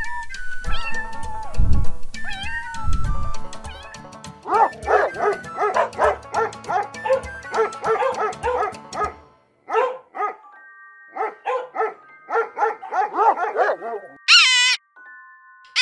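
Dogs and puppies barking and yelping, with rapid strings of short, high yelps, over background music.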